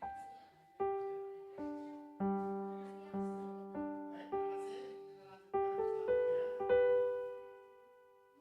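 Piano playing the closing bars of a song's accompaniment. Single notes and chords are struck about every half second to second, ending on a held chord that rings and slowly fades.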